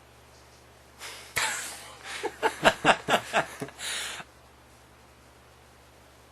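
A burst of breathy laughter with snorts and gasps, rapid pulses about five a second, lasting about three seconds and starting about a second in, over a low steady electrical hum.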